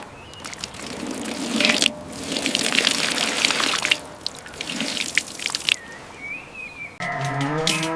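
Water pouring and splashing in three short separate stretches, with small clicks and knocks among them; music begins about a second before the end.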